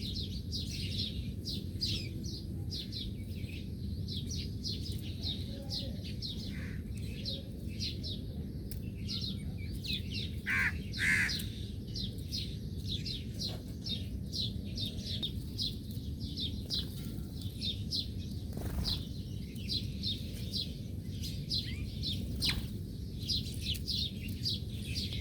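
Small birds chirping continuously: quick, high, downward-sliding chirps, several a second, with two louder, lower calls about eleven seconds in, over a steady low background rumble.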